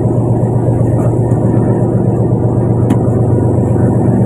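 Fishing boat's engine running steadily, a loud low drone. A single short click about three seconds in.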